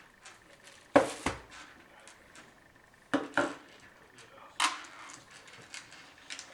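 Sharp metallic clinks and knocks from handling a computer case and its loose screws: two quick knocks about a second in, two more about three seconds in, and another a little later.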